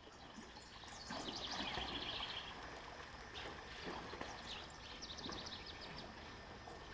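Faint riverside ambience with a low hiss of moving water, and a small bird singing a quick run of high repeated notes about a second in and again around five seconds in.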